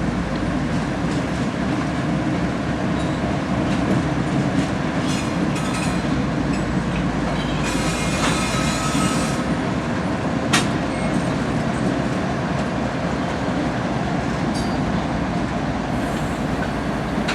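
CSX freight train rolling past with a steady rumble of wheels on rail. A brief wheel squeal comes about eight seconds in, and a single sharp clank about ten and a half seconds in.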